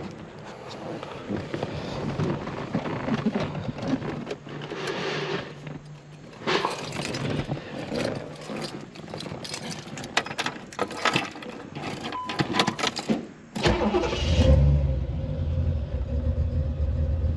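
Keys jangling and clicks of handling inside the cabin of a 1986 Chevrolet Corvette C4. About 14 seconds in, its upgraded ZR1 V8 starts with a loud burst and settles into a steady idle.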